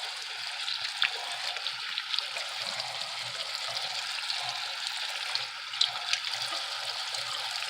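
Kitchen tap running steadily into the sink as cooked lasagna noodles are rinsed in a strainer, with a few light clicks.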